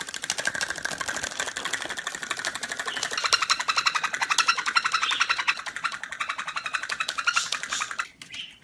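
A bird's rapid, rattling chatter: a fast train of even, clicking pulses, about a dozen a second, kept up without a break for about eight seconds before stopping.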